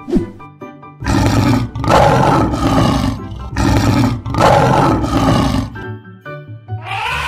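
Lion roar sound effect: several long roars in a row, starting about a second in and ending a little before the end, over children's background music.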